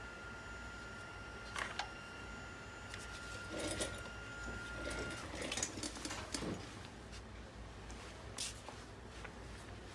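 Scattered light clicks and rattles of small parts being handled, over a steady high tone that stops about five seconds in.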